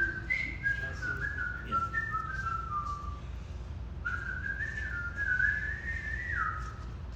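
A series of clear whistled notes that hold and step up and down in pitch like a short tune. A second phrase starts about four seconds in and ends on a falling slide. A steady low hum runs underneath.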